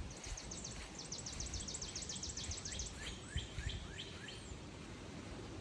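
A songbird singing: a fast, high trill of short downslurred notes for about three seconds, then a slower run of lower slurred notes. Faint low thumps of handling or steps sound under it.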